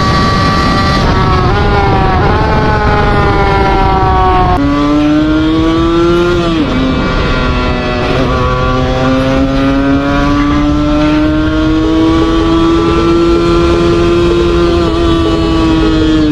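Two-stroke motorcycle engine under engine braking. Its pitch slides down, drops suddenly about four and a half seconds in, dips again a couple of seconds later, then climbs slowly and steadily.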